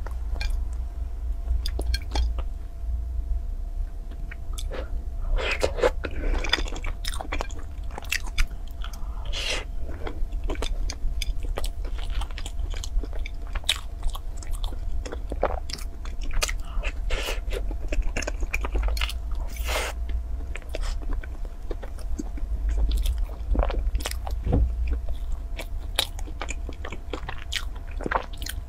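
Close-miked chewing and biting of a crusty cream-filled bun, with crackly crunches and tearing of the flaky crust scattered throughout, over a steady low hum.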